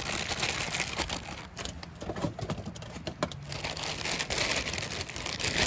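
Crinkling and rustling as handfuls of green beans are taken from a plastic bag and dropped onto an aluminium-foil packet, with many small irregular clicks.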